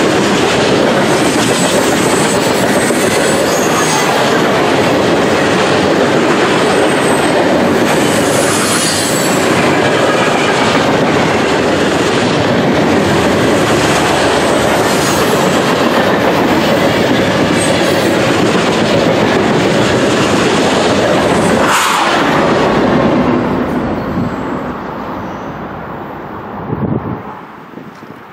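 Freight cars of a long mixed train rolling past at close range: a steady rumble and clatter of steel wheels over the rail joints, with faint high wheel squeals. The last car goes by a little over three-quarters of the way in, and the sound fades away.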